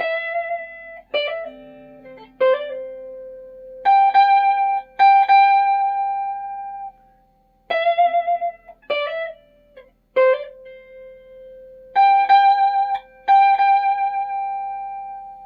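Flight Centurion solid-body electric tenor ukulele playing a slow single-note lead melody: about a dozen picked notes, several held and ringing for two to three seconds with a slight wavering in pitch, showing the instrument's long sustain.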